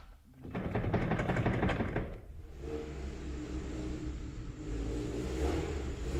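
A motor running steadily with a low, even hum, after about two seconds of rough, noisy clatter at the start.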